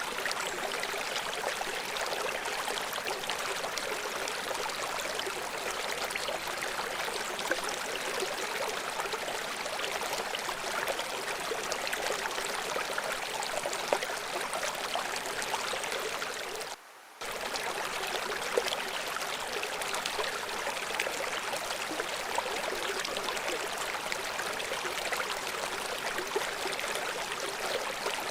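River water rushing and splashing steadily over rocks, an even hiss of flowing water that cuts out for a split second about two-thirds of the way through.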